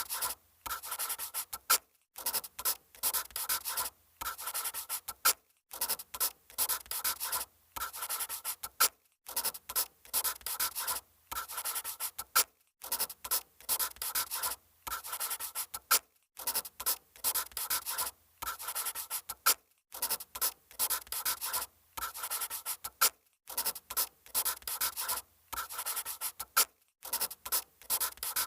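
Handwriting on paper: a writing implement scratching across the page in runs of strokes a second or two long, separated by brief pauses.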